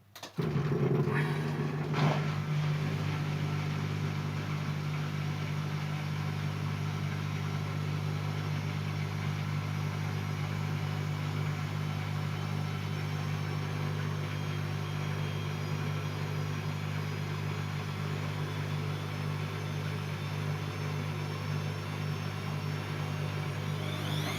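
Siemens Siwamat C10 washing machine starting up abruptly and then running with a steady motor hum.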